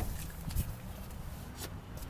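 Rear seatback of a 2010 Chevy Equinox being raised: handling noise with a soft thump about half a second in and a faint click near the end.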